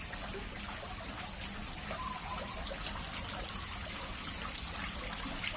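Steady trickle of running water, with faint scattered clicks.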